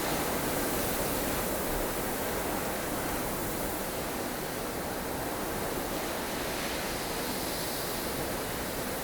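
Steady rushing wind of a blustery snow storm, a dense even hiss that swells and eases slightly in strength.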